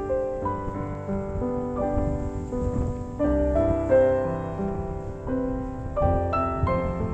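Background piano music: a gentle melody of single notes changing about every half second, over a low rumbling haze.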